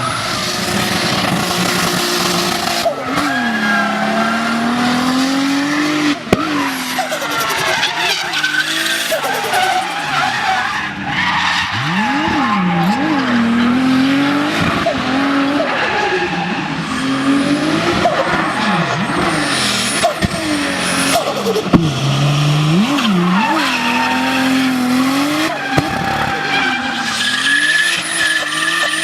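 Big-turbo Toyota Supra engine revving hard, its pitch repeatedly climbing and dropping, with tyres squealing. A few sharp cracks come about 6 and 22 seconds in.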